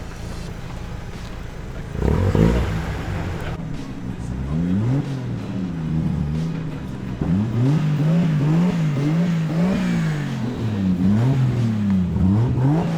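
Car engine idling, then revved again and again, its pitch rising and falling in quick blips that come about twice a second toward the end, with a short loud burst about two seconds in.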